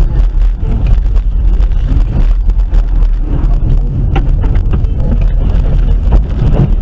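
Steady low rumble of a moving car, with a few faint knocks about four seconds in and near the end.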